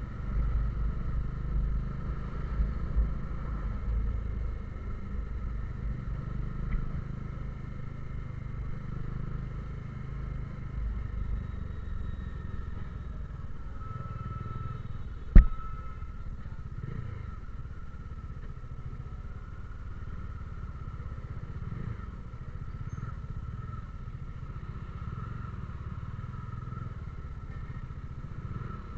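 Motorcycle engine running steadily on the move, with wind rumble on the microphone that eases after about ten seconds. A single sharp click about fifteen seconds in.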